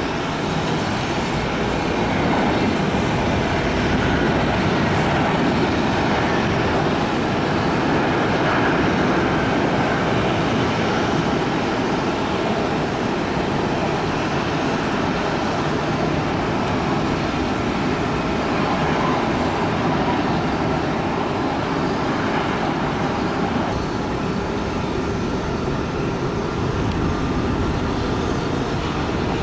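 Jet airliner engine noise: a steady, loud rush with faint whining tones, swelling slightly a couple of seconds in and holding.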